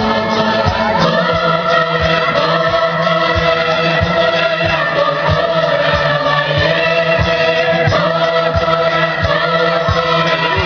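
Several voices singing together in long held notes, choir-like, over a low steady drone and a regular low drum beat.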